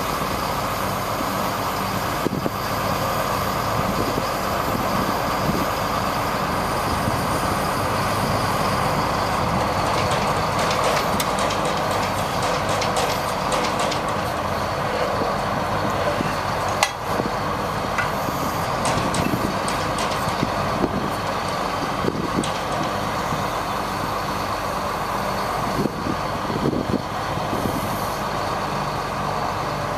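1999 GMC digger truck running steadily, with a few scattered clicks and knocks, a sharper one about halfway through.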